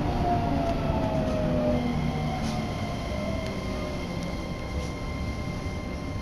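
Shin-Keisei Line electric train braking into a station, heard from inside the car: the motor whine falls in pitch for about two seconds as the train slows, over a rumble that gradually quietens. A thin steady high tone carries on after that.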